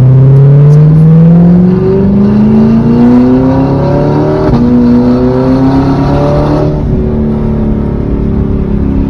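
Straight-piped, naturally aspirated V8 of an Audi R8 accelerating hard, its exhaust note climbing in pitch for about four seconds. The note then holds at high revs, with a short break about four and a half seconds in, and eases off near seven seconds in.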